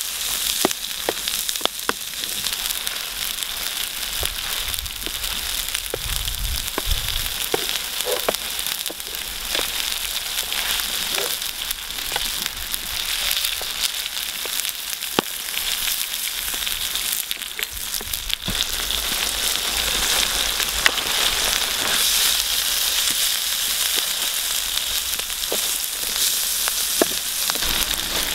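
Squid rings and onion frying in tomato sauce in a metal baking tray over a wood fire: a steady sizzle with many scattered sharp crackles.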